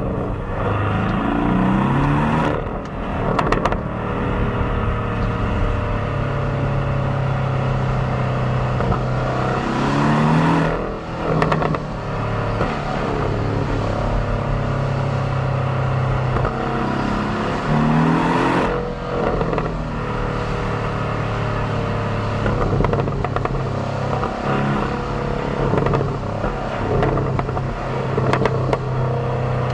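Stock 2018 Porsche 718 Cayman's turbocharged 2.0-litre flat-four on the standard exhaust, heard from the rear bumper mixed with cabin sound. The engine pulls with rising revs three times, each ending in a short break like a gear change, and runs at steady speed in between.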